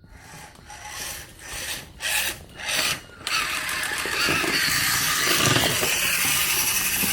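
Toy remote-control monster truck's electric motor and gears whirring in a few short bursts as the throttle is pressed, then running continuously from about three seconds in as the truck drives off.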